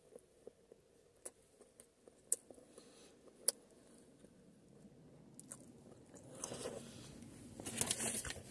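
Someone biting into and chewing a Nashville fried chicken burger: a few sharp clicks at first, then a crackling chewing noise that builds over the last two seconds.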